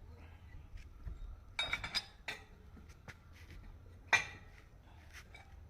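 Metal parts and tools clinking and knocking, with a cluster of clinks about one and a half seconds in and one sharp metallic knock about four seconds in.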